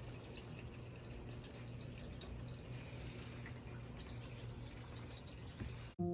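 Rain falling and dripping: light, scattered drips over a steady low hum.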